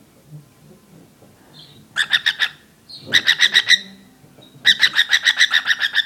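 Cockatiel making its rapid 'machine gun' call, a fast train of short, sharp chirps at about ten a second, in three bursts, the last and longest starting near the end. It is an angry display aimed at a squeaking wooden toy.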